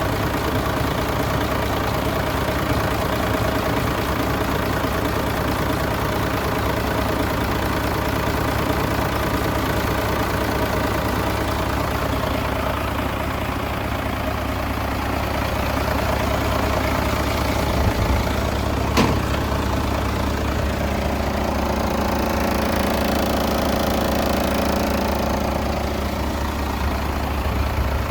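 An engine running steadily at idle, with a single sharp click about nineteen seconds in.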